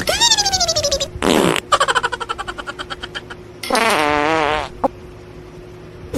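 Comedy fart sound effects: a whistle-like tone sliding down in pitch, then a rapid sputtering rattle, then a wobbling pitched tone near the end.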